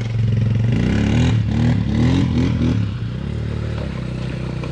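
Vehicle engine revving: its pitch swings quickly up and down several times in the first three seconds, then settles to a steady run.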